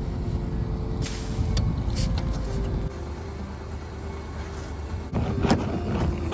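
A vehicle engine running with a steady low rumble, with a few sharp clunks: one about a second in, two more soon after, and the loudest about five and a half seconds in.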